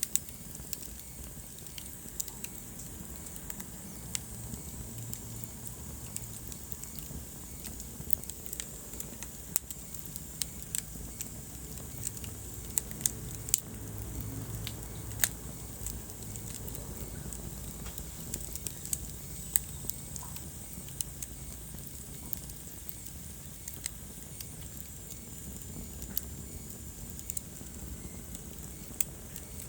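Wood fire burning in a fireplace: a low steady rumble of flames with frequent sharp, irregular pops and crackles of burning logs.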